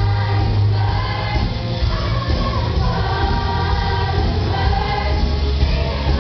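A group of high-school students singing together as a choir over loud, bass-heavy musical accompaniment.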